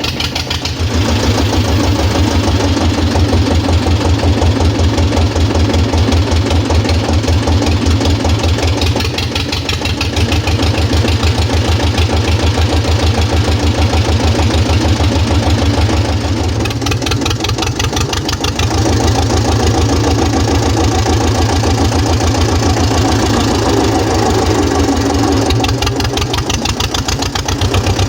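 Güldner AZK 8K tractor's diesel engine running with a steady, rapid exhaust beat through its new aftermarket exhaust pipe. The note shifts for a couple of seconds about two-thirds through, then settles back.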